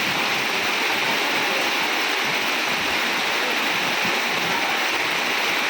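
Heavy rain falling: a steady, even hiss of water with no breaks.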